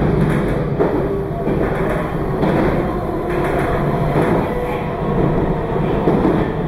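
Meitetsu 2200 series electric limited express train running, a steady rumble of wheels on rail heard on board.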